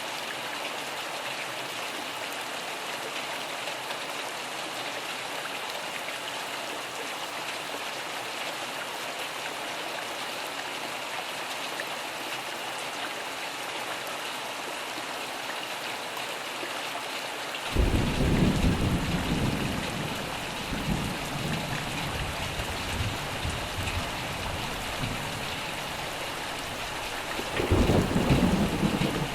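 Steady rain falling, with a sudden loud clap of thunder about two-thirds of the way in that rumbles on for several seconds, and a second loud peal of thunder near the end.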